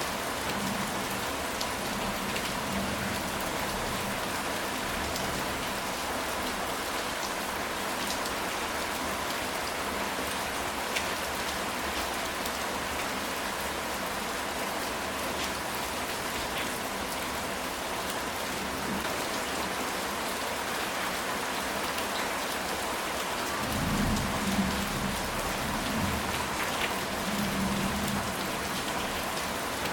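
Steady rain falling on a ceramic tile roof, an even hiss with scattered sharper drop hits. A low rumble of thunder comes in about three quarters of the way through and fades over a few seconds.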